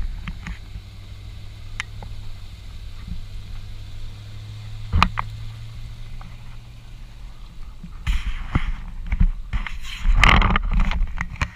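An engine running steadily with a low hum, with a single knock about five seconds in; in the last few seconds rough, gusty noise and thumps take over.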